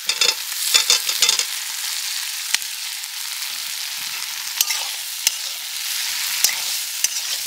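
Spice masala frying in hot oil in a pan, a steady sizzle, as fried potatoes go in and are stirred. A spatula scrapes and knocks against the pan again and again, most busily in the first second and a half.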